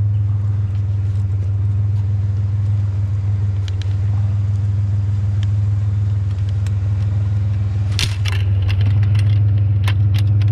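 Vehicle engine idling with a steady low hum, with a few light metallic clinks and rattles from scrap being handled, clustered in the last few seconds.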